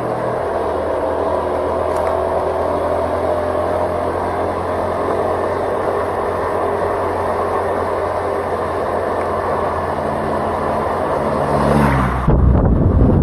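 A vehicle's engine running steadily while driving along a road, with tyre and wind noise. About twelve seconds in, a louder, rougher low rumble sets in.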